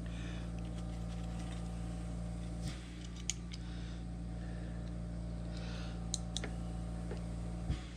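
A few faint scattered clicks and taps from handling small metal parts or tools at the machine, over a steady low electrical hum.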